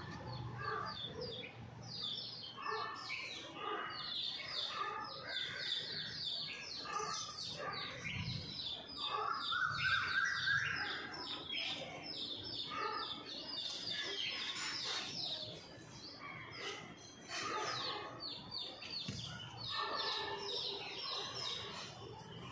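Many small birds chirping rapidly and continuously, with a longer, louder call about ten seconds in.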